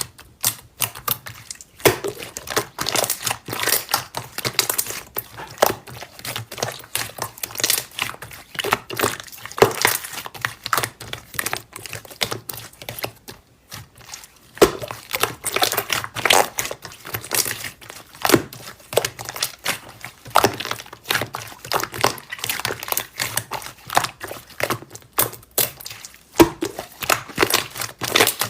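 Slime being played with: a dense, continuous run of crackling clicks and pops, with a brief lull about halfway through.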